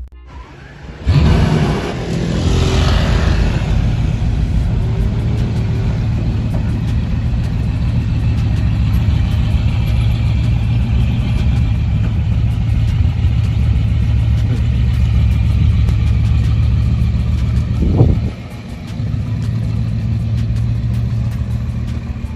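A car engine running with a deep, steady sound, with a brief sharp rise and drop about eighteen seconds in.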